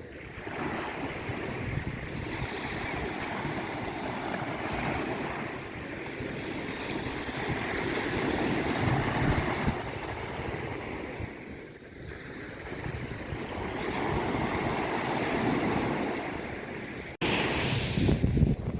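Sea waves washing in and drawing back, a steady rush that swells and fades in two long surges. About seventeen seconds in the sound breaks off for an instant and comes back as a louder, brighter surge.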